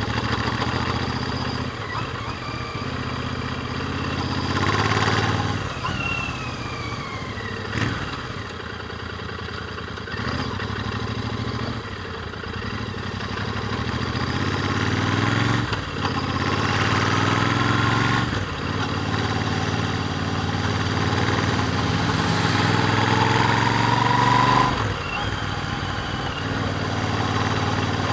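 Royal Enfield Interceptor 650's parallel-twin engine running through its stock exhausts while riding. The revs rise and fall with acceleration and gear changes, with a long climb in the second half that drops off sharply near the end. Wind rushes past throughout.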